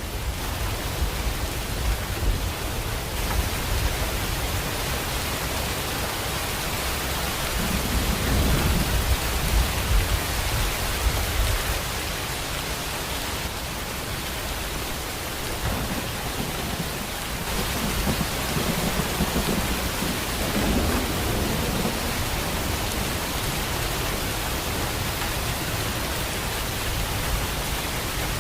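Steady rain with low rolls of thunder, one swelling about a third of the way in and another a little past the middle.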